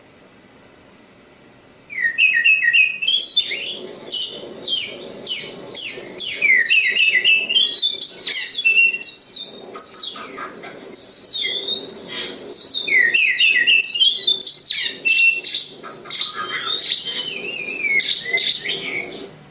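Oriental magpie-robin (kacer) singing a long, fast, varied song of clear whistles and quick sweeping notes. It starts about two seconds in and runs almost without a break until just before the end.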